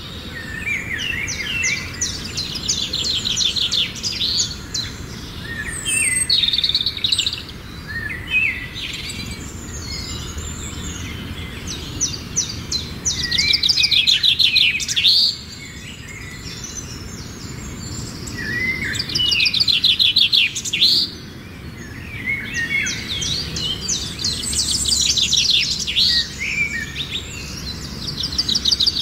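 A songbird singing in repeated phrases of rapid high trills mixed with short slurred whistles, with brief pauses between phrases.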